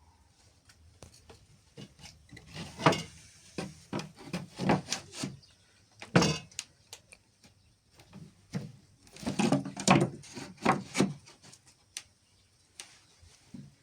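Irregular knocks, clatter and rubbing of objects being handled, coming in several bunches with short pauses between.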